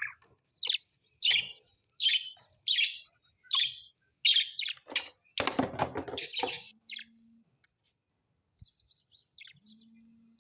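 Parrots chirping in a series of short, high, repeated calls, with one louder, harsher call about halfway through, then only a few faint chirps.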